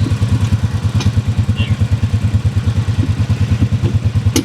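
Four-wheeler engine idling with an even chugging beat, about ten pulses a second. A single sharp click comes near the end.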